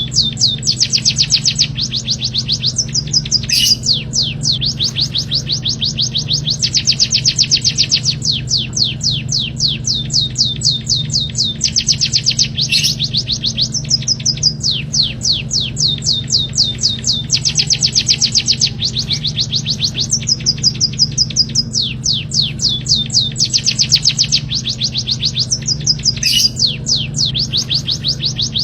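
A small songbird singing rapid trills of quick downward-sweeping high notes, about ten a second, in phrases of two to three seconds with short breaks between. A steady low hum runs underneath, and three sharp clicks break in.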